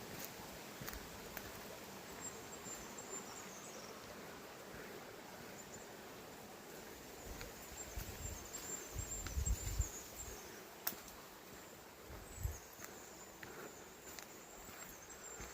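Riverbank ambience: the steady hiss of a flowing river, with thin high trills of small birds over it. Low rumbles of wind on the microphone come between about eight and ten seconds in and once more a couple of seconds later.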